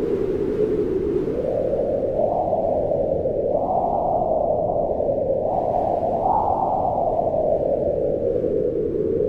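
Wind howling steadily, its pitch slowly rising through the middle and falling again near the end.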